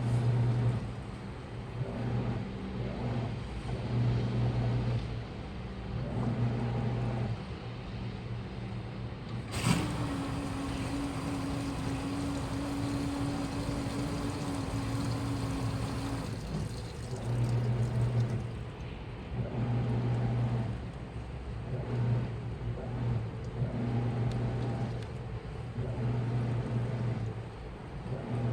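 Washing machine running its wash cycle: the drum motor hums in short bursts about every two seconds as it turns the drum. About a third of the way in a click sounds and a steady higher hum runs for about six seconds before the bursts resume.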